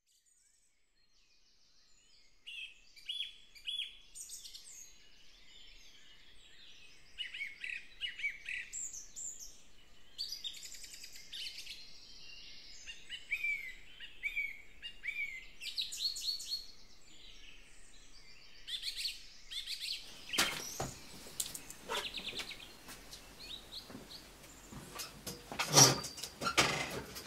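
Songbirds singing: a chorus of short chirps, trills and falling whistles. About twenty seconds in, a series of clicks and knocks begins, with one loud knock near the end.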